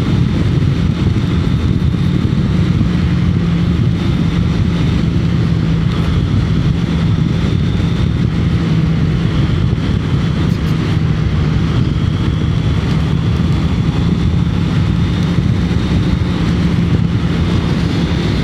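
Honda CBR650R's inline-four engine running at a steady pace while riding, a constant tone with heavy low rumble and no revving.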